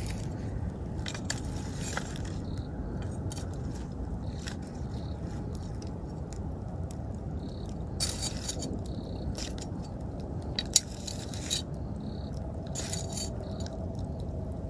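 Wood campfire crackling and popping over the low steady rush of the flames, with a sharp pop about eleven seconds in. Crickets chirp faintly in the background.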